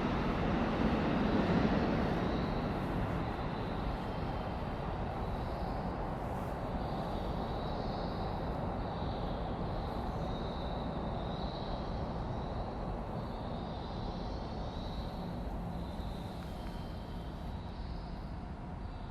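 Rumble of a train on the line, a little louder about two seconds in, then slowly fading away into quieter station ambience.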